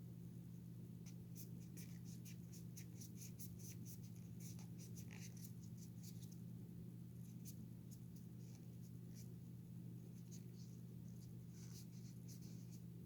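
Quick, scratchy rubbing strokes as the toy figure's arm is scrubbed to clean off grime, over a steady low hum.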